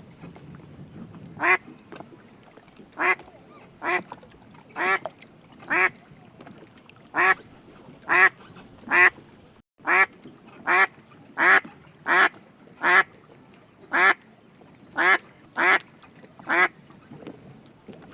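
A duck quacking over and over: about seventeen single, short quacks, spaced unevenly, roughly one every half second to second and a half.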